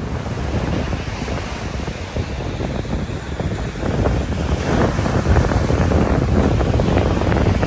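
Strong wind buffeting the microphone over breaking surf, a rumbling, gusty rush that grows louder about halfway through.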